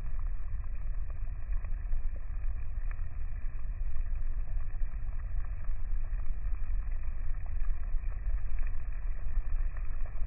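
Rainstorm noise: a steady low rumble that keeps wavering in level, with faint scattered ticks on top.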